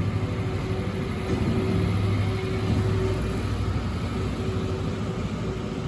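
Caledonian Sleeper train running, heard from inside a sleeper cabin: a steady rumble with a faint hum that comes and goes, as the train pulls into the station.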